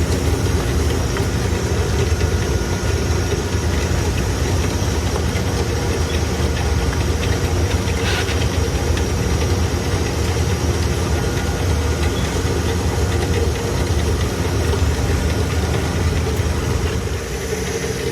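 Steady low machinery hum with no change in pitch or level, with one short hiss about eight seconds in.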